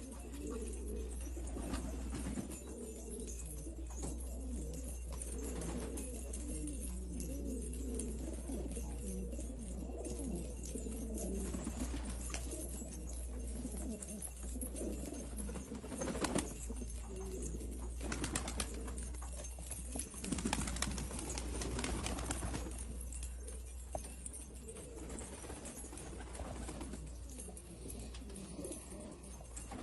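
Domestic pigeons cooing, a steady stream of low, wavering coos over a constant low hum. A few short noises cut in about halfway through.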